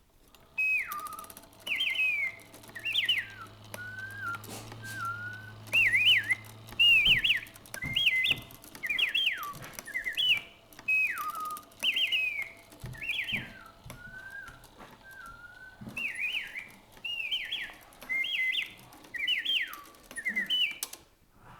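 Emilian Wehrle Black Forest singing bird clock's musical train playing its song: a bellows-blown whistle sings a long string of short chirping phrases that leap and slide in pitch, with faint clicks from the linkage between phrases. A low hum runs under the first seven seconds or so.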